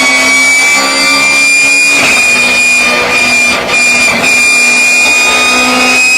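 BMW E36 race car running at speed, its straight-cut gearbox giving a loud high whine that slowly rises in pitch over the engine's steady note. The loudness dips briefly about three and a half seconds in.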